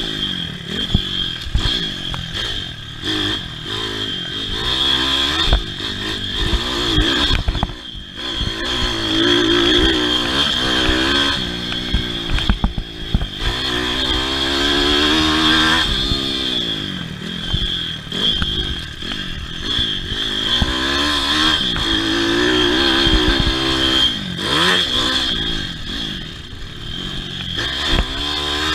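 Pit bike's small single-cylinder engine racing on a motocross track, its pitch rising and falling over and over as the rider opens and closes the throttle through jumps and corners. A steady high whine runs underneath, with scattered clattering knocks.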